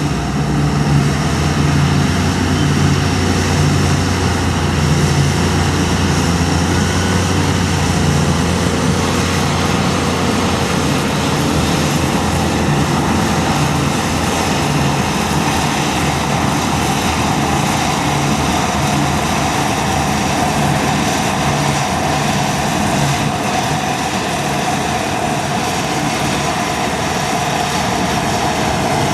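Deutz Fahr Topliner 4090 HTS combine harvester running steadily, its engine and threshing machinery making a dense mechanical hum, with a higher whine that strengthens over the last several seconds.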